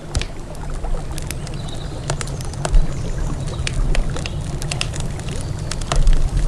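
Wood campfire crackling, with frequent irregular sharp pops and snaps over a steady low rumble of river ambience.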